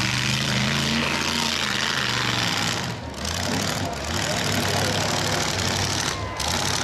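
Demolition derby trucks' engines running hard with a loud exhaust roar, their pitch shifting about three seconds in as they rev and drive.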